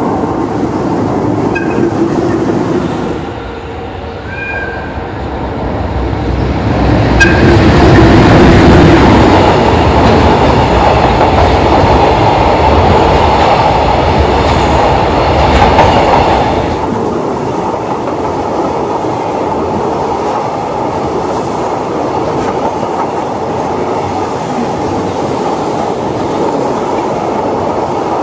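A container freight train hauled by a JR Freight EH500 electric locomotive rolling past, steel wheels running on the rails. It grows louder a quarter of the way in and stays loud for several seconds, then settles to a steady running noise as the container wagons go by.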